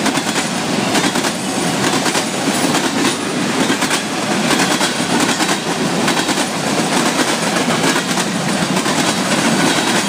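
Freight cars of a passing Florida East Coast Railway train rolling by, a steady rumble and rattle with repeated clacks from the wheels.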